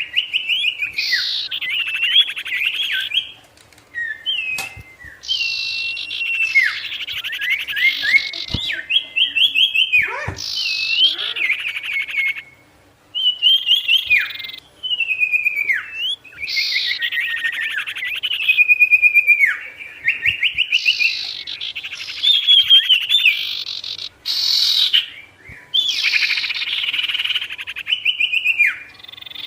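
A songbird sold to keepers as a 'sirtu' sings in repeated loud phrases of fast rattling trills and sliding whistled notes, about seven phrases with short pauses between them. This is the lively 'gacor' song used as a masteran or lure recording.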